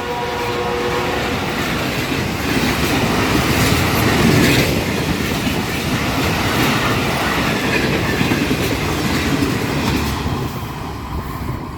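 Train hauled by a General Electric locomotive passing close by. Its loud multi-tone horn cuts off about a second in, followed by a steady rush of cars running over the rails that eases off near the end.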